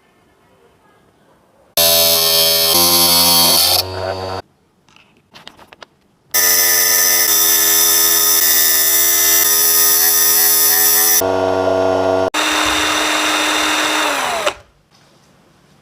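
A small electric motor runs at a steady pitch in three bursts of a few seconds each. The last burst slows and falls in pitch as the motor winds down.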